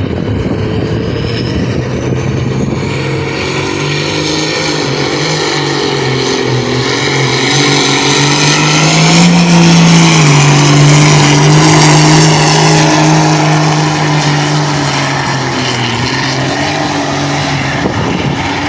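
Farm tractor engine running hard under load as it pulls the weight sled, a steady drone that climbs a little in pitch and is loudest about halfway through, then eases off slightly.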